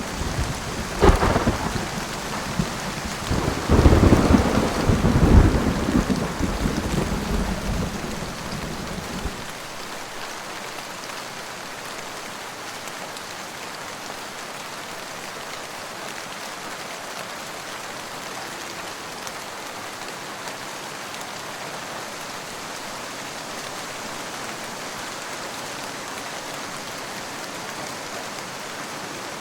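Steady rain falling, with a sharp thunderclap about a second in followed by a long low rolling rumble of thunder that stops abruptly about nine seconds in; after that the rain continues alone.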